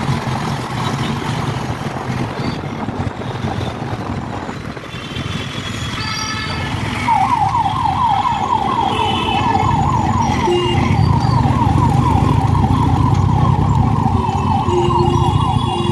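Road traffic heard from a moving motorcycle, with the low engine and wind rumble throughout. From about seven seconds in, a siren sounds in fast repeating upward sweeps, about four a second, until near the end, while vehicle horns honk in short bursts.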